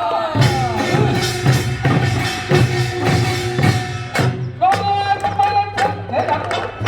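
Korean folk singing with percussion: voices carrying a melody over drum strokes about twice a second.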